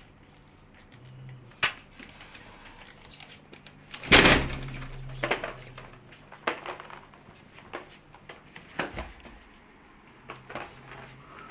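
A series of sharp knocks and thumps, the loudest about four seconds in.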